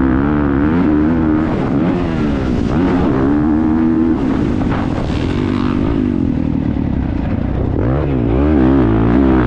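Motocross bike engine heard on board at race pace, its pitch rising and falling again and again with the throttle, with a quick wavering rise and fall near the end.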